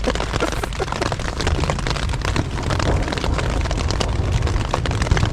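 Heavy rain pelting down on a tent in a thunderstorm, a dense hiss of countless drops over a continuous low rumble.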